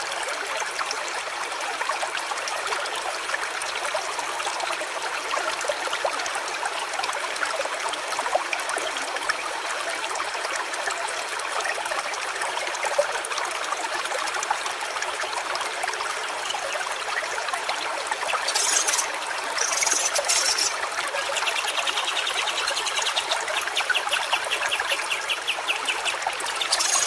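A small stream trickling and babbling steadily. Near the end a rapid, even trill joins it.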